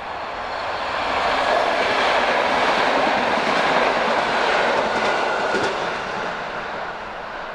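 ALn 668 diesel railcar passing close by. A rush of engine and wheel noise swells to a peak within about two seconds, holds, then fades away, with a few clicks of wheels over rail joints about five seconds in.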